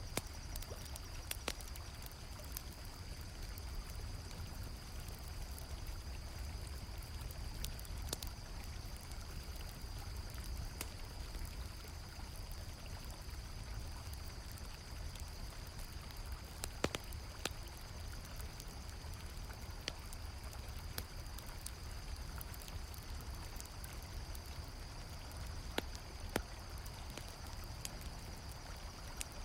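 River water flowing steadily with a continuous high cricket trill over it, and scattered sharp pops from a crackling campfire, the loudest about halfway through.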